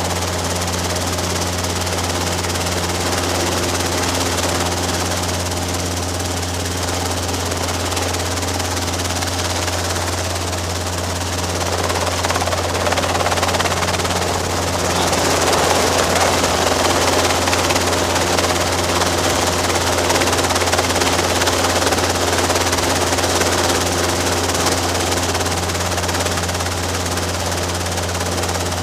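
Robinson R22 helicopter running steadily, its carbureted piston engine and rotor making a constant low drone with steady tones above it. The noise grows louder about halfway through and stays up.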